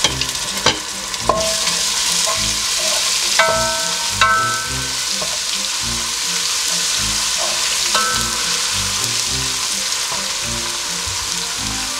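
Golden-brown onions and ginger-garlic paste sizzling in hot oil in a pot, stirred with a wooden spatula that knocks against the pot several times, some knocks ringing briefly.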